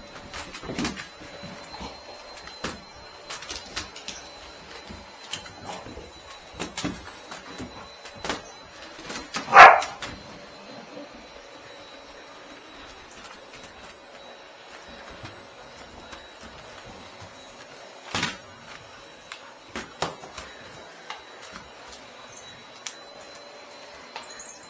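Labrador Retriever giving one loud bark about ten seconds in, amid scattered knocks and clatter as she plays with a vacuum cleaner.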